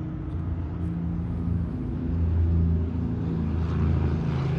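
Steady low mechanical drone from running machinery, a pitched hum that swells slightly partway through.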